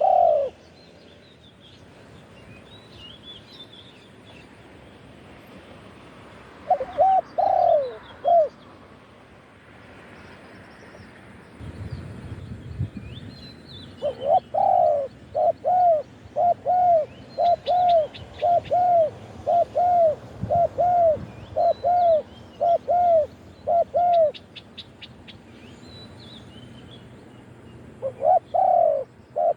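Spotted dove cooing: a short phrase of three coos, then a long even run of repeated coos lasting about ten seconds, and another phrase near the end. Small birds chirp faintly in the background.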